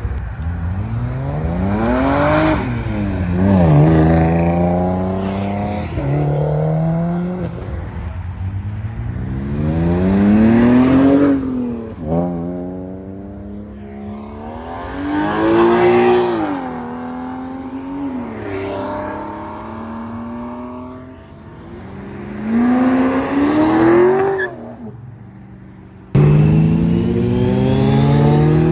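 Kawasaki ZX10R's inline-four engine pulling hard through the gears several times. The pitch climbs in sweeps and drops at each shift, eases off between pulls, then comes in abruptly again near the end.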